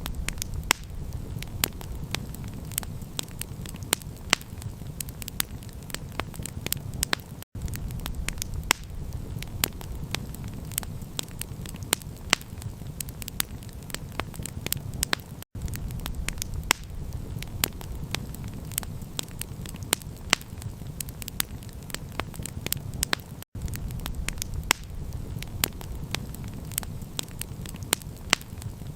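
Campfire crackling with frequent sharp pops over a steady low rumble. The sound cuts out for an instant about every eight seconds, like the seam of a looped recording.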